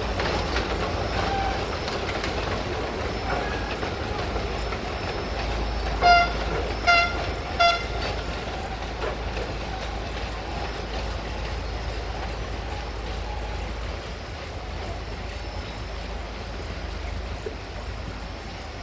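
Narrow-gauge train rolling away along the track, its clatter slowly fading. About six seconds in, the L45H diesel locomotive sounds three short toots on its horn, the loudest sounds here.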